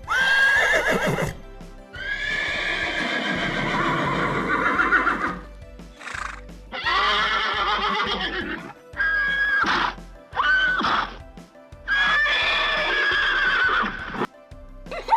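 Horse whinnying again and again: about seven neighs, some long and quavering, others short, with music underneath.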